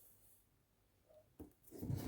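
Flat sand being worked: quiet at first, then a sharp click about one and a half seconds in and a grainy crunching sound building near the end.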